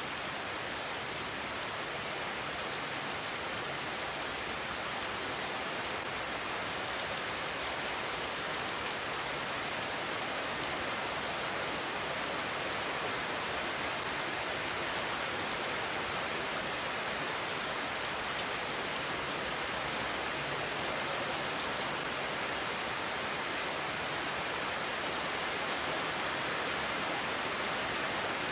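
Steady, dense rain falling, an even hiss of drops on surfaces.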